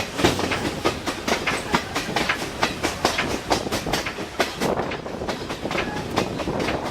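Passenger train wheels rolling over rail joints: a fast, uneven clatter of clicks over a steady rumble.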